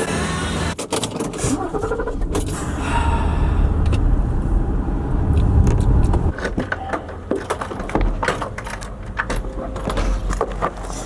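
Many sharp clicks and jingling rattles over a low rumble that swells in the middle and then eases off.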